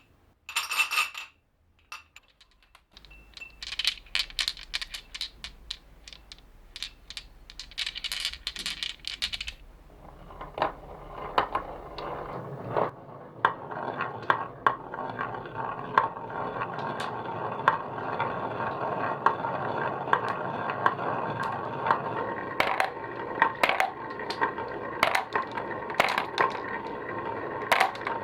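Marbles on a marble run: first scattered sharp clicks and clinks as marbles strike each other and the track, then from about ten seconds in a steady rolling rumble with many small clacks as a crowd of marbles rolls down the track together.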